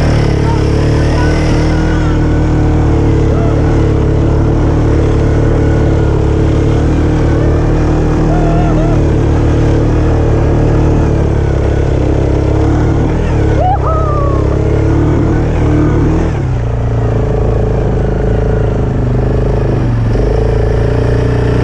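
ATV engine running steadily under way, its pitch holding fairly even, with a brief drop about two-thirds of the way through.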